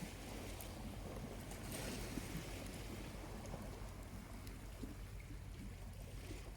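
Small waves lapping on a beach, a wash of surf swelling about two seconds in, with a few faint crackles from a charcoal campfire.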